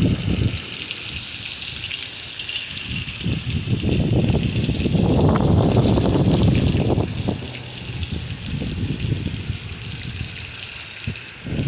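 Strong wind gusting and buffeting the microphone with a low, uneven rumble that swells to its strongest about halfway through, over a steady hiss.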